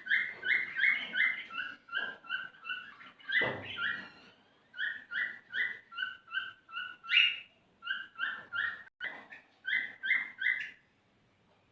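Male cockatiel singing its courtship song to get a female ready to mate. It is a rapid run of short whistled notes, alternating between two pitches at about three a second. There is a brief break about four seconds in, and the song stops near the end.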